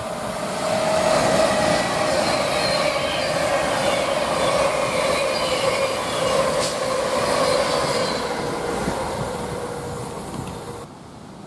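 Avanti West Coast Class 390 Pendolino electric train passing the platform, loud and steady with a constant whine running through the rail noise. The sound cuts off sharply near the end.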